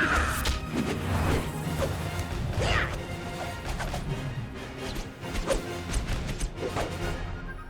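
Orchestral film score with a quick run of fight sound effects, swishing whooshes and hard whacks and crashes. It all fades away near the end.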